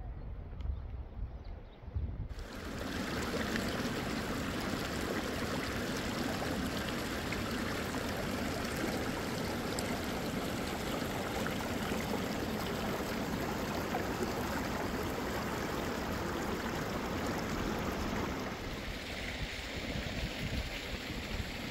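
Steady rush of running water starting about two seconds in, changing in tone a few seconds before the end.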